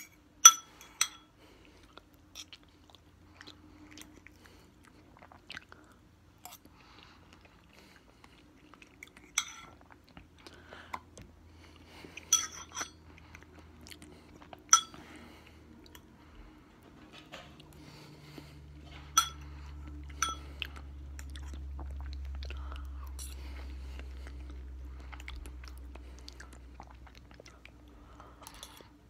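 A person chewing and biting into sliced mango close to the microphone, with sharp mouth clicks every few seconds. A low hum swells in about halfway through and fades near the end.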